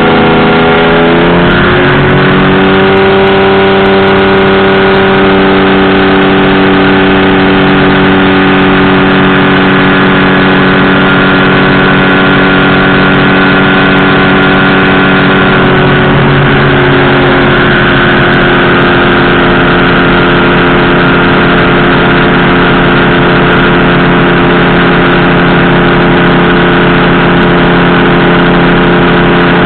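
Powered parachute's engine and propeller running loud and steady at flying power. The pitch drops during the first two seconds and settles, then shifts slightly about halfway through.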